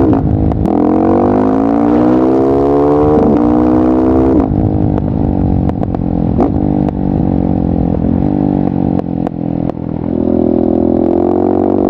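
KTM 690 SMC R single-cylinder engine through a LeoVince exhaust, accelerating hard with quick upshifts near the start and about 3 s in. It then comes off the throttle about 4.5 s in and runs on the overrun with a string of sharp pops. Near the end it goes back on the throttle and runs steadily.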